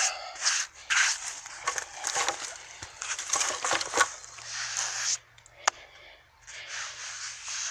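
Irregular rustling and crackling of hands and feet working in sawdust on freshly milled wood. It stops about five seconds in, followed by a single sharp click.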